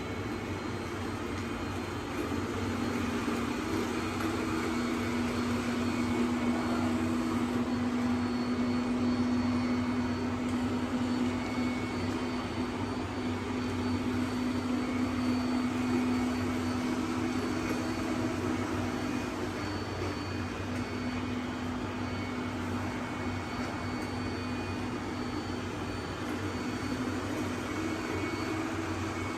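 Robot vacuum cleaners running: a steady motor hum with a faint high-pitched whine.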